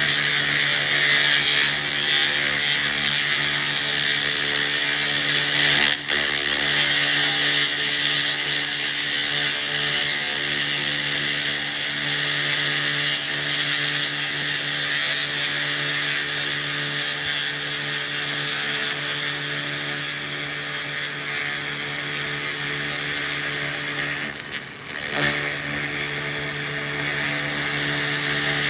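SFX 2000 W laser rust remover running: a steady hiss from the beam cleaning rust off metal over the machine's constant hum. The hiss dips briefly near the end.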